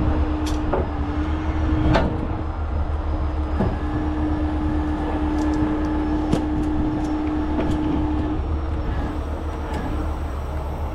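Heavy wrecker's diesel engine running steadily with a constant hum, while snatch blocks are taken off the winch cables with scattered sharp metallic clanks and clicks.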